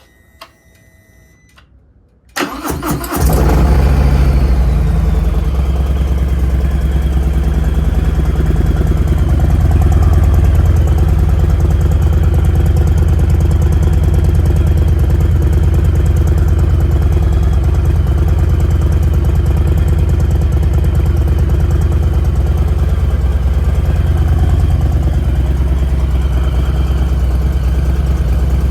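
A 2021 Harley-Davidson Heritage Softail's Milwaukee-Eight V-twin, breathing through newly fitted Cobra 3-inch RPT exhaust pipes. A few small clicks come first. About two seconds in, the starter cranks, the engine catches, and it settles into a steady idle.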